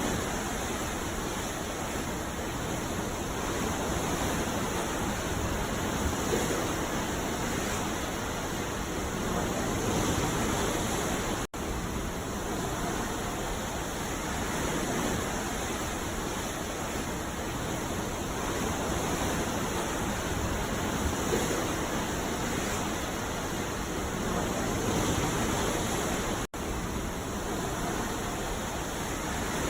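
Ocean surf breaking on a beach: a steady wash of noise that swells and eases every few seconds. It cuts out for a split second twice, about a third of the way in and near the end.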